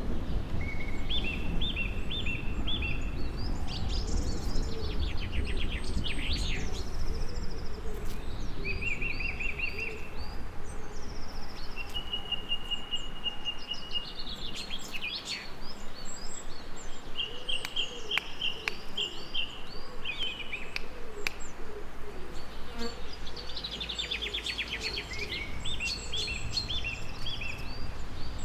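Several songbirds singing and calling, overlapping: short trills, runs of repeated whistled notes and one held high whistle. Underneath runs a low rumbling background of thunder and rain, strongest at the start.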